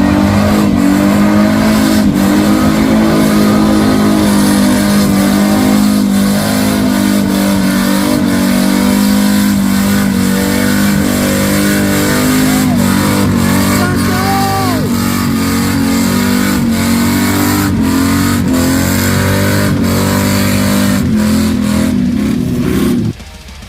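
Mud bog truck's engine held at high revs, running loud and steady at nearly constant pitch, with scattered sharp knocks; it cuts off suddenly near the end.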